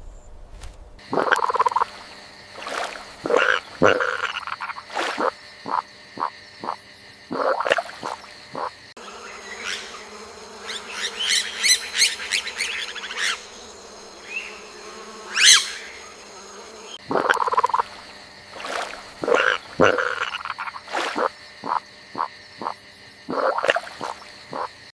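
Frogs croaking in runs of short, repeated calls, with a faster, higher-pitched trilling in the middle stretch.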